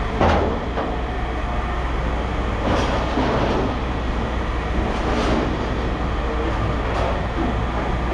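Steady low machinery rumble, with a few short rattles and clanks of scrap metal being handled; the loudest comes just after the start.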